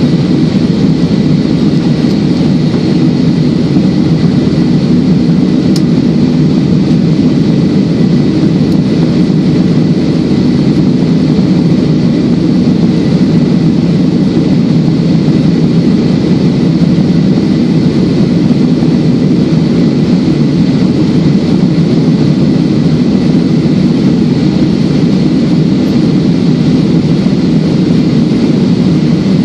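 Airliner cabin noise in flight: the steady rush of engines and air, even and unbroken, with a thin steady whine above it.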